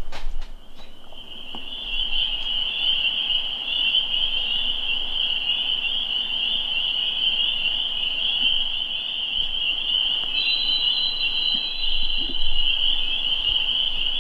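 Steady high-pitched trilling chorus of calling animals, starting about a second in and holding an even pitch, with a second, higher caller joining for a couple of seconds near the end.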